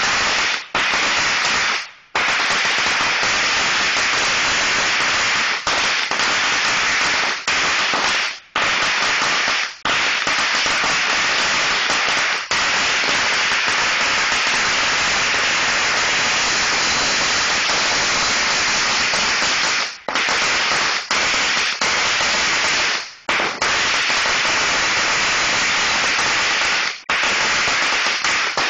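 A long string of Black Cat firecrackers going off in a rapid, unbroken crackle of bangs, with a few brief breaks of under a second.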